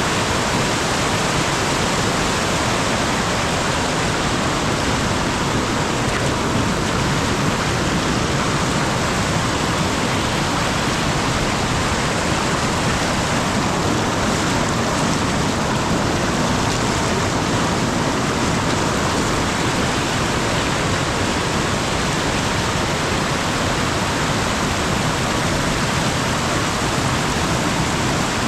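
Mountain stream flowing: a loud, steady rush of running water that does not change.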